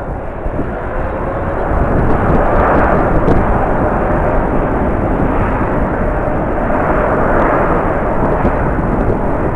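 Jet airliner engines running close by, a loud steady rush with a faint tone in it, over strong wind buffeting the microphone.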